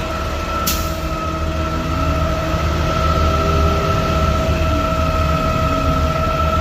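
Heavy garbage truck running in place: a steady low rumble with a constant high whine over it, and a brief hiss about a second in.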